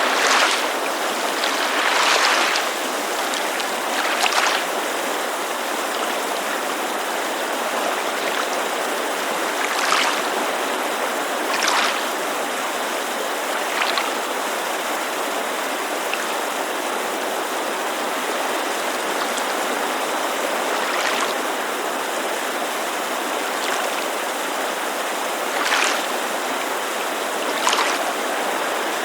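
Water lapping at a lakeside shore, a short splash every few seconds, over the steady rush of a mountain creek.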